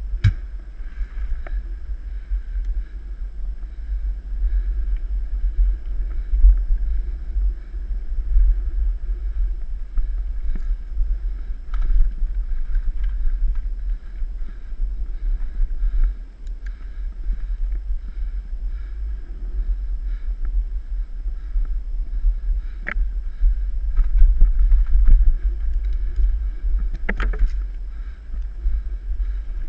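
Wind buffeting the microphone as a deep, gusting rumble while a mountain bike is ridden along a trail, with a few sharp clicks and rattles from the bike over bumps.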